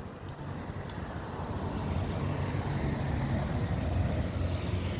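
A motor vehicle approaching on the street, its engine hum and road noise growing louder over the first couple of seconds and then holding steady.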